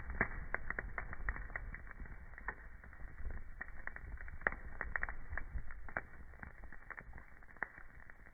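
Wood burning in a fireplace, crackling with many irregular sharp pops over a low steady rumble.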